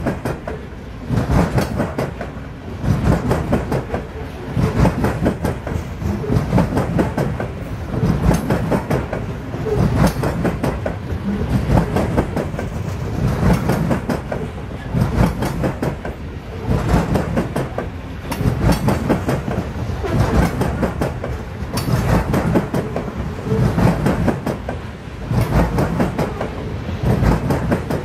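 Loaded coal hopper cars of a freight train rolling past close by: a steady rumble of steel wheels on rail, with the clickety-clack of wheelsets over rail joints. The loudness swells and eases about every two seconds as each car's trucks go by.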